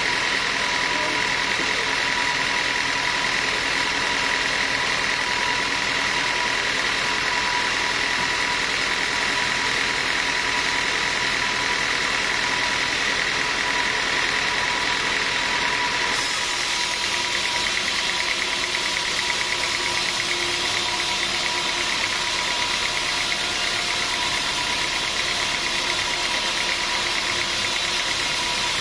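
Sawmill machinery running steadily: a continuous mechanical drone with a steady high tone through it. The sound changes abruptly about sixteen seconds in.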